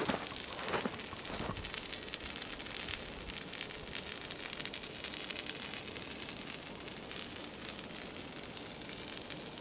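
Campfire burning pine branches, crackling steadily with many small sharp pops over a soft hiss.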